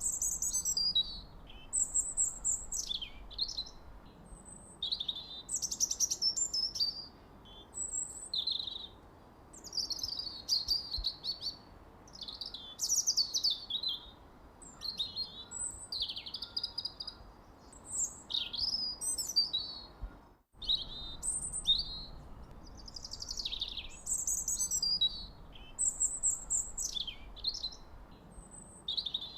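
Birds chirping and singing in short, varied high-pitched phrases, one after another every second or two, with sweeping notes that often fall in pitch. All sound cuts out for a split second about two-thirds of the way through.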